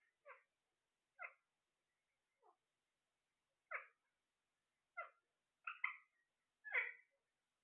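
A pet parrot giving short, sharp calls, about eight of them roughly a second apart, growing louder toward the end.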